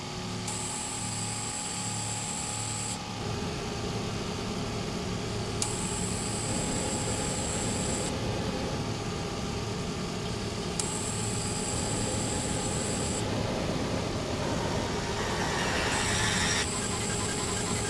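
Electroacoustic music built from layered noise and hum textures, with a high hissing band that switches on and off abruptly every two to three seconds and a denser swell building near the end.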